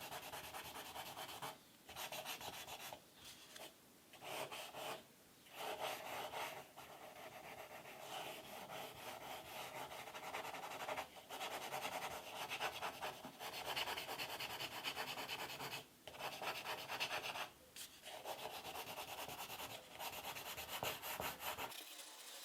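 A drawing tool scratching across paper in quick repeated strokes, filling in texture. The strokes stop briefly every few seconds and then go on.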